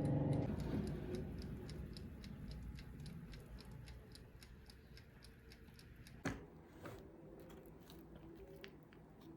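Steady, rapid ticking, about four ticks a second, with one sharp louder click about six seconds in.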